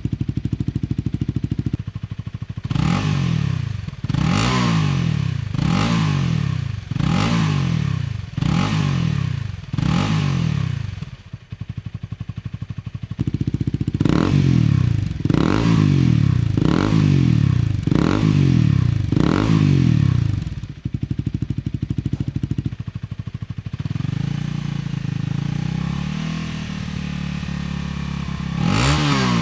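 Honda Rebel 250's single-cylinder engine blipped repeatedly from idle in quick rising-and-falling revs. The first run is through the stock muffler and the second through an OVER Racing SS megaphone full exhaust. It then settles to idle and is held at steady part throttle through the stock muffler.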